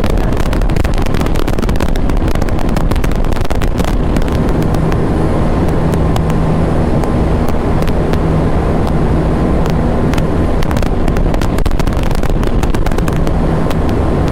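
KTM Duke 390 single-cylinder motorcycle engine running at steady revs at speed, with heavy wind buffeting on the microphone.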